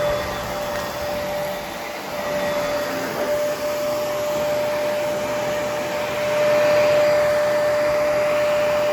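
Vacuum cleaner running with a steady motor whine and rushing airflow, getting louder about two-thirds of the way through.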